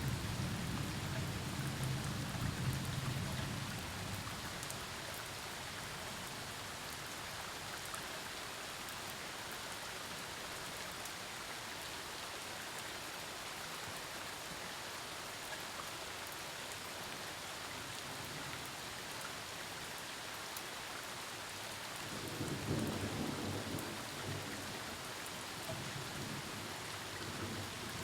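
Steady rain falling during a thunderstorm, with low thunder rumbling at the start, fading over the first few seconds, and a second rumble rolling in about three quarters of the way through.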